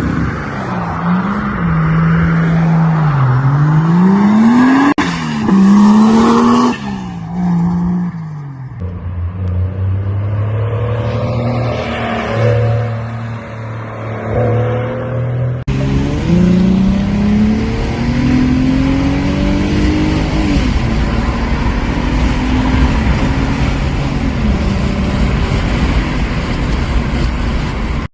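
Car engine revved up and down repeatedly, the pitch rising and falling with each blip of the throttle; the sound changes abruptly twice, as from one car to another, and the last part carries a steady noisy hiss under the engine.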